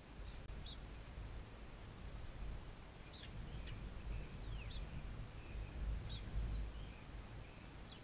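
Small songbirds chirping now and then: short high chirps, with one falling whistle about four and a half seconds in, over a low rumble that makes up most of the loudness.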